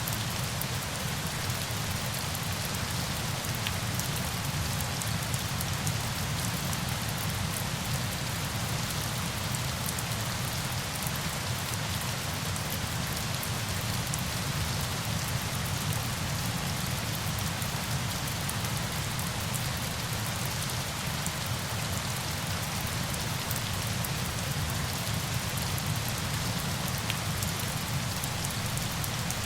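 Steady rain with fine drop ticks over a dense, even hiss and a low rumble, unchanging throughout.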